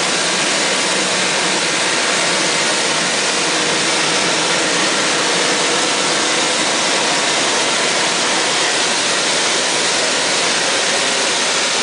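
Steady industrial machine noise, an even loud hiss without rhythm. It comes from the on-site grinding rig machining the riding rings of a large rotary dryer while the dryer keeps turning.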